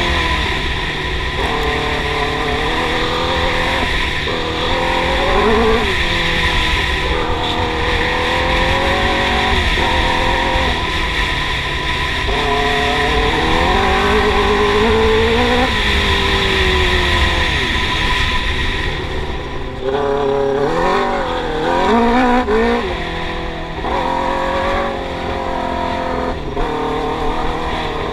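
Yamaha R6 inline-four engine in a YFZ450 quad running hard under load, its pitch climbing and dropping again and again as the rider revs up and lets off. A steady hiss runs with it and stops about two-thirds of the way through.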